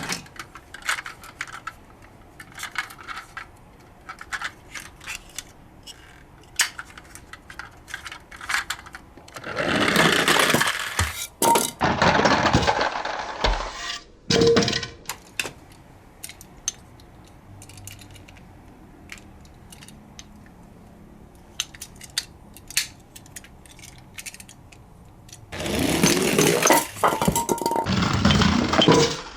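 Die-cast toy cars clicking and clinking against each other and their container, with two longer stretches of rattling clatter, one about ten seconds in and one near the end.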